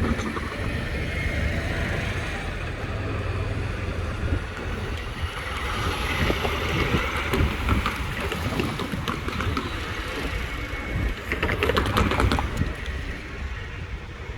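A train passing with a steady rumble and wheel clatter, with a cluster of sharp clicks about twelve seconds in.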